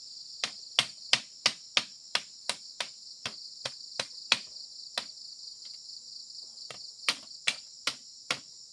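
Sharp hammer blows, about three a second, in two runs with a pause of a second or two in the middle, over a steady high chirring of insects.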